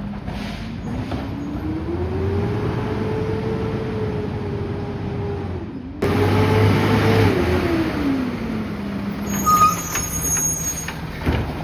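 Peterbilt 520 garbage truck's engine revved up from idle and held high for several seconds, then after a cut held high again and dropping back to idle. A brief high-pitched sound follows near the end.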